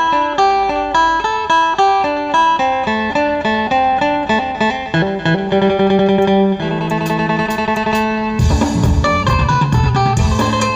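Thai phin (Isan plucked lute) playing a quick melody of plucked notes. Deeper bass notes come in about halfway, and a drum beat joins near the end.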